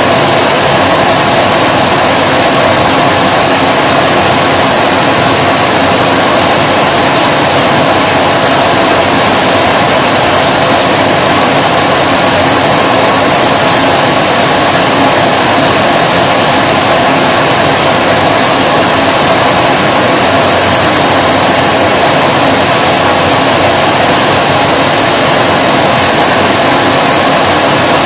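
Vacuum cleaner motor running continuously: a loud, unchanging rush of air with a steady whine.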